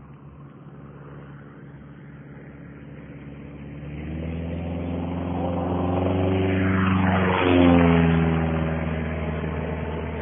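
Small airplane's engine flying in low: it grows louder over several seconds, passes close about seven and a half seconds in with a drop in pitch as it goes by, then runs on as it moves away.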